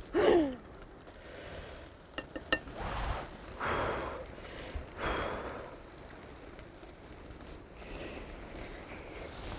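Sounds of eating from a hot pan: a short falling hum at the start, a couple of light clicks of utensils on the pan, then a few soft rushing swells of sizzling or breath.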